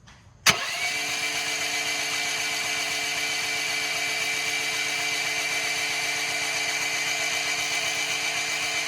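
Electric starter cranking the Rippa Mule Trac mini excavator's small gasoline engine with its spark plug pulled, for a spark check. It cuts in sharply about half a second in and then spins at an even, steady whine, with no compression to slow it.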